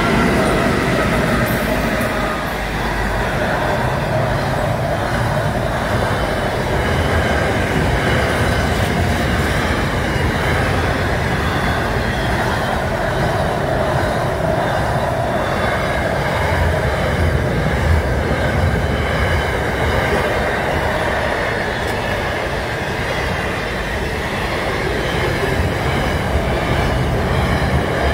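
Pacific National freight train passing close by at speed, NR-class diesel-electric locomotives first, then a long run of double-stacked container wagons. Their wheels rumble and clatter steadily on the rails.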